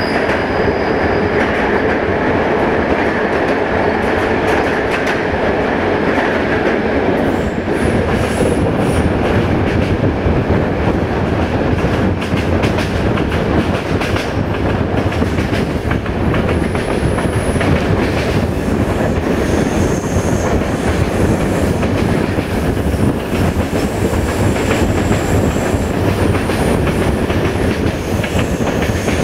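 Passenger train running on curving track, heard from a carriage window: steady rail and wheel noise with clattering, and several brief high-pitched wheel squeals on the curves. The first seven seconds or so are in a tunnel before the train comes out into the open.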